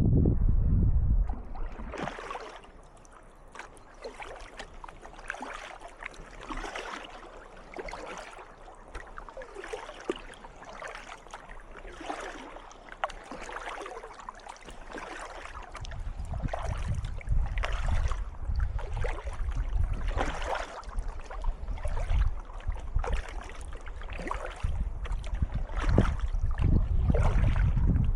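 Kayak paddle blades dipping and splashing in calm water in a steady rhythm, about one stroke a second. Wind rumbles on the microphone at the start and again through the second half.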